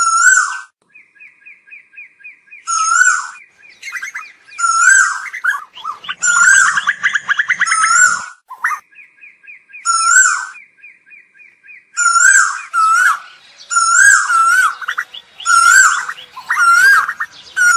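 Asian koels calling: loud short notes repeated every second or so, with fast runs of rapid, higher notes between them.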